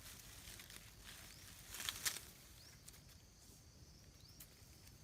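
Dry leaf litter crackling and rustling, with a cluster of louder crackles about two seconds in, then two short high chirps.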